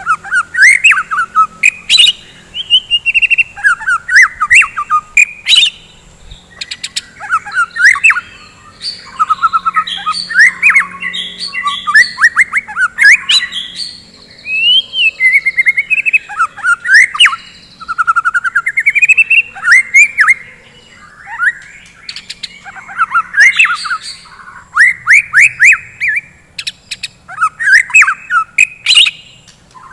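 White-rumped shama (murai batu) singing loudly and without let-up: quick phrases of sweeping whistles and trills broken by short pauses, with sharp clicking notes mixed in.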